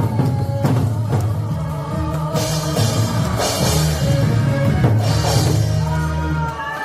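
Drum nanta playing: drums struck along to a recorded song with a heavy bass line and a driving beat, with cymbal-like splashes swelling twice.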